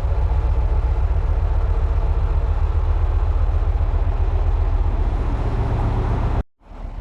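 Steady low engine drone running without change. It drops out abruptly for a moment near the end and then comes back.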